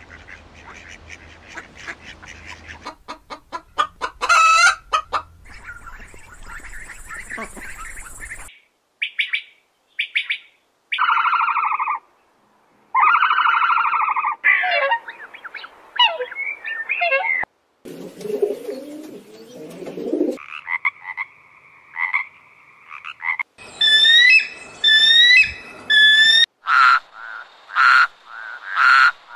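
A string of different animal calls cut back to back: a mallard duck calling near the start, several different bird calls in the middle, and a frog calling repeatedly near the end.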